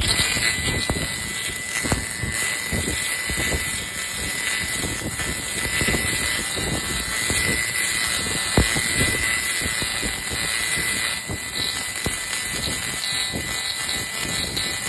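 Fiber laser cleaning head working over an engine surface, a continuous crackling hiss with irregular low rumbles and a steady high whine.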